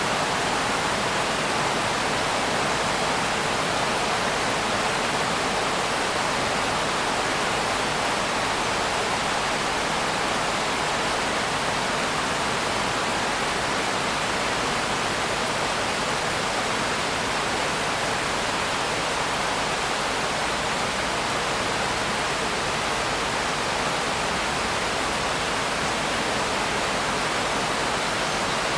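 Steady rain, a dense even hiss with no single drops, thunder or changes standing out.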